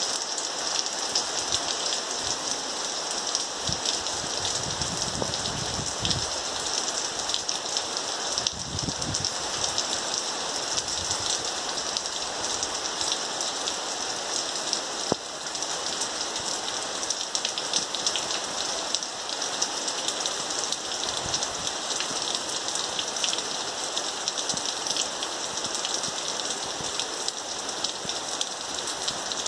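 Steady rain falling, an even hiss dense with small ticks of drops striking.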